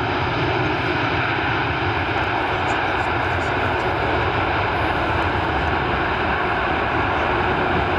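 Jet airliner engines running with a steady, loud noise.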